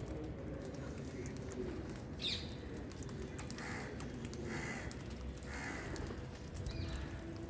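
Birds calling: a short sharp falling call about two seconds in, then three harsh calls about a second apart and a fainter high call near the end, over a steady low rumble.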